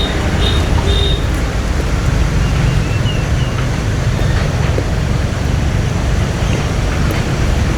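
Steady low rumble of a river boat's engine running, mixed with water and wind noise. A few short high chirps sound in the first three seconds.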